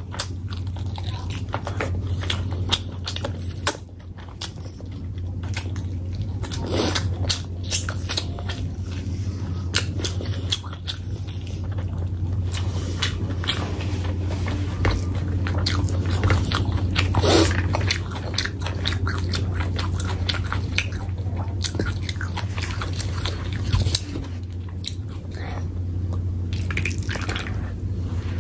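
Close-miked chewing of a mouthful of rice and curry eaten by hand, with many short mouth clicks, over a steady low hum.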